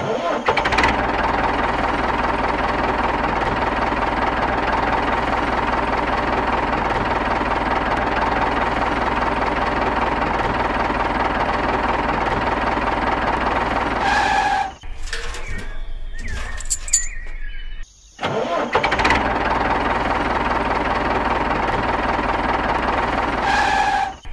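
Tractor engine running steadily with a knocking chug, a dubbed sound effect over a toy tractor. It drops out about 14 seconds in for a few seconds of quieter background, then the same engine sound comes back.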